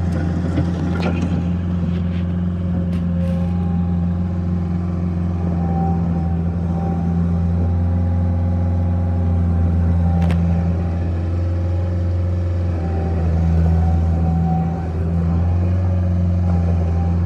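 Bobcat 763 skid steer loader's diesel engine running steadily, with slight swells and dips in its note and a single sharp click about ten seconds in.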